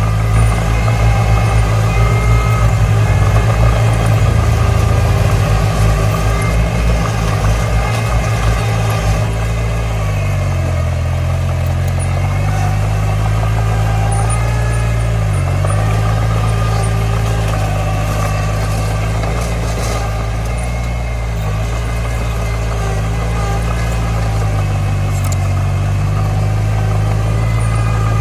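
Komatsu D20 bulldozer's diesel engine working hard with a fast, throbbing beat for the first several seconds, then running steadier, its pitch dipping briefly a couple of times as load comes on.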